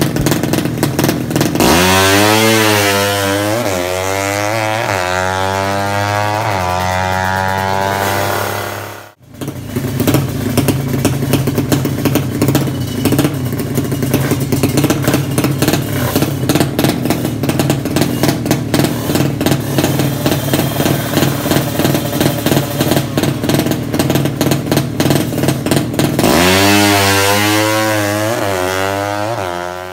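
Drag-race motorcycle engine being revved, its pitch climbing in a run of rising steps. It cuts off sharply about nine seconds in, then runs steadily with a fast, rattly beat, and climbs again in another rising rev near the end.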